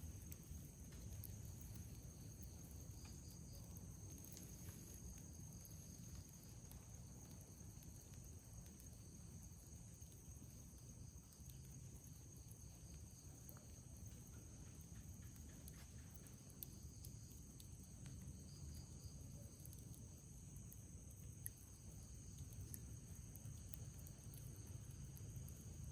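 Faint night ambience: a steady high-pitched trilling of crickets and other night insects over a low rumble, with a few scattered faint crackles from a campfire and one sharper pop near the end.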